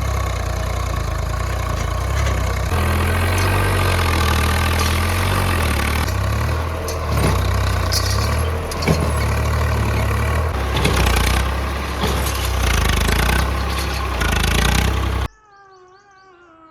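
Heavy diesel engine running, its pitch stepping up a few seconds in, with a few sharp metallic knocks in the middle; the sound cuts off abruptly near the end.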